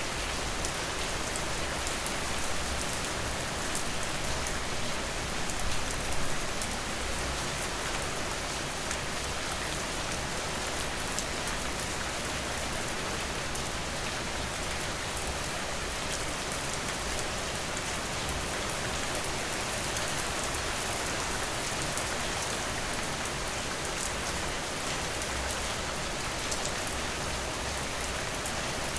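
Steady, even rain falling, with fine individual drop ticks throughout and a couple of slightly louder swells about six seconds in.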